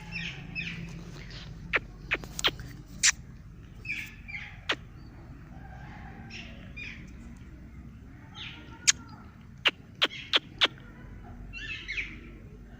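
Birds chirping in short clusters of high notes, with sharp clicks or taps now and then and several in quick succession about two thirds of the way through.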